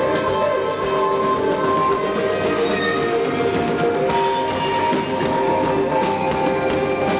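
Live instrumental experimental music: sustained pitched tones over a dense, steady texture with light percussion.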